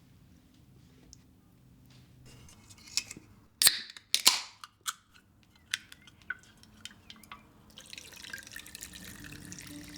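A few sharp clicks and knocks of small household objects being handled, the loudest pair about four seconds in, then a steady hiss of running water begins near the end.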